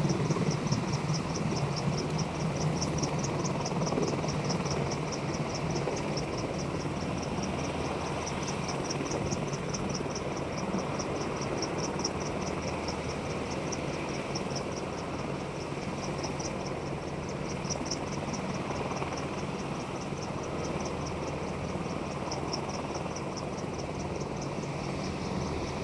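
Insects chirping in an even, rapid pulse of high chirps, several a second, over a steady low hum.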